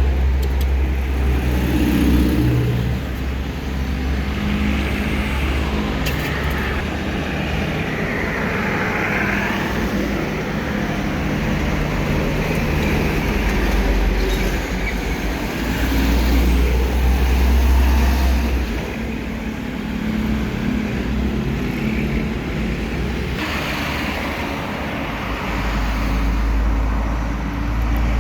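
Road traffic with trucks and other vehicles passing close by. Their engines give a deep rumble that swells and fades as each one goes past.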